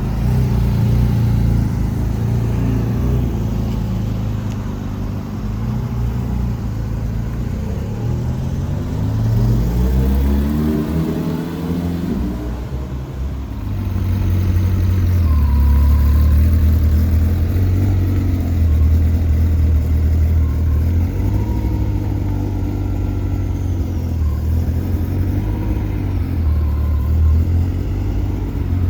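Car engines in street traffic: one engine revs up with a steeply rising pitch around ten seconds in, then a heavy, low engine rumble rises and falls as cars pull away.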